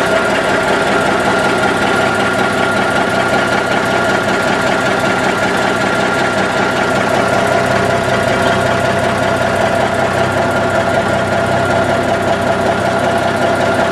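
A 1984 GMC Astro truck's 400 Big Cam Cummins inline-six diesel engine idling steadily, heard up close. The engine was recently overhauled and is warm but not fully hot, having been run about 45 minutes earlier.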